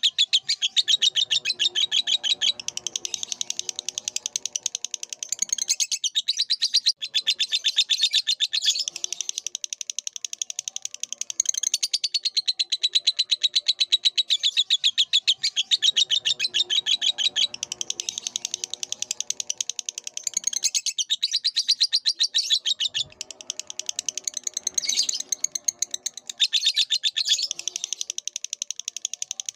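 Lovebird singing: a long, continuous stream of rapid, high-pitched chirps and twitters, with a fainter, lower chatter underneath in stretches.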